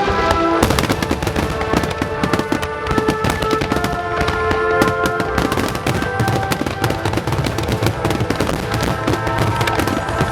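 Fireworks display: a dense, rapid barrage of bangs and crackles with no let-up, with music playing along.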